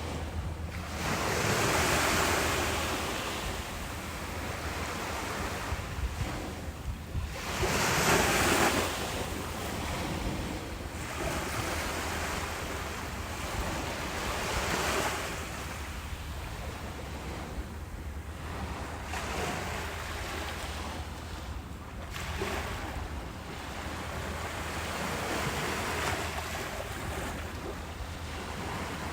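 Ocean waves breaking on a beach, a steady wash of surf that swells as each wave breaks. The two biggest breakers come about 2 and 8 seconds in, with gentler ones after. Wind rumbles on the microphone underneath.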